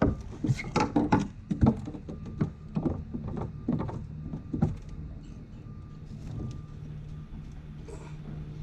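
A run of knocks and thuds over the first five seconds or so, about a dozen, then a steady low hum alone.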